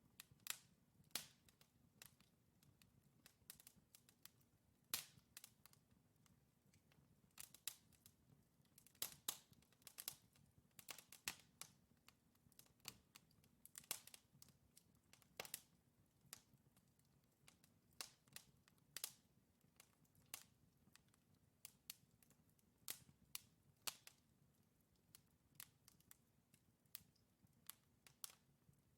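Wood fire in a fireplace, burning logs crackling and popping: irregular sharp snaps, several a second at times, over a faint low hiss of flame.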